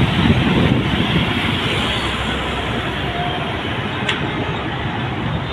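Rumble of a large road vehicle driving past close by, loudest in the first second and slowly fading, with a brief sharp tick about four seconds in.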